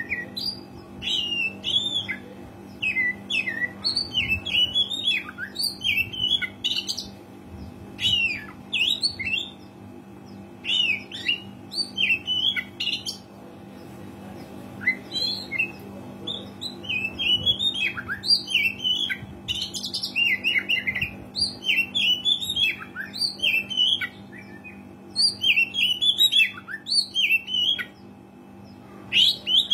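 Oriental magpie-robin singing lively, fast phrases of varied gliding notes, each run lasting a second or two with short pauses between, over a faint steady low hum.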